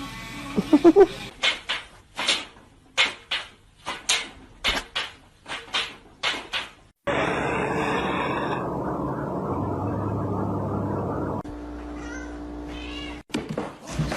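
A cat's short rising meow, followed by a run of sharp knocks about two a second. Then comes a loud steady hiss lasting about four seconds, and after it a steady tone.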